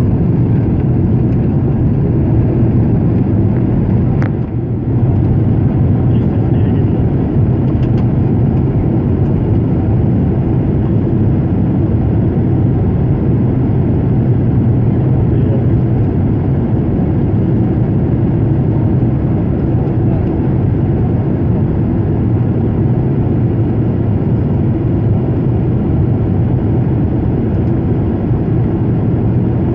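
Steady low roar of a Boeing 767's engines and airflow heard inside the passenger cabin during the descent for landing, with a brief click and dip about four and a half seconds in.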